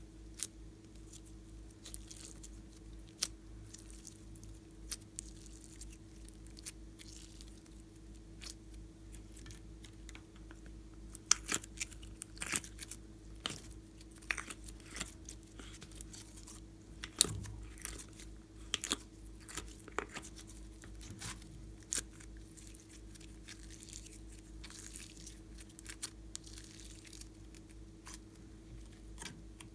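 Slime being mixed and squished by hand: scattered sticky clicks and crackles, thickest in the middle, over a steady low hum.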